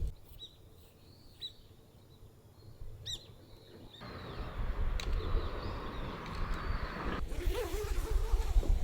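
A few short bird chirps over quiet outdoor ambience. About four seconds in, a steady rushing noise begins and grows louder near the end.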